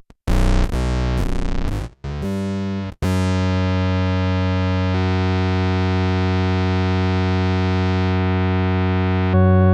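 Electric bass played through an MXR MB301 Bass Synth pedal, giving synth-bass tones. A few short notes each start bright and quickly mellow, then one note is held for about six seconds, and a new, louder note starts near the end.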